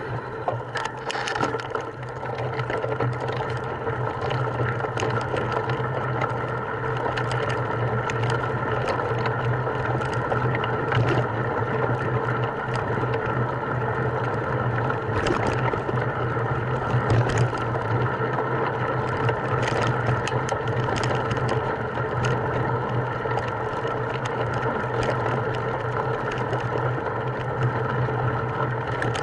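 A small motor running at a steady speed, with scattered clicks and rattles over it.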